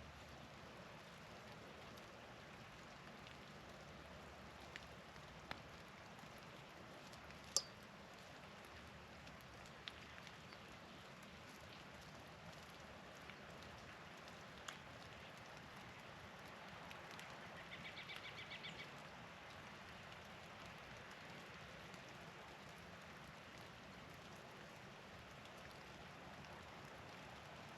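Faint steady patter of wet snow or rain falling, with scattered sharp drips and ticks, one louder tick about a quarter of the way in. Past the halfway point a small songbird gives a short, rapid trill.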